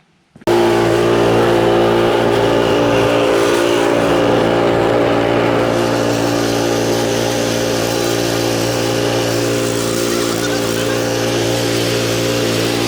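Poulan Pro PR271 snow thrower's engine running steadily and loudly, cutting in abruptly about half a second in.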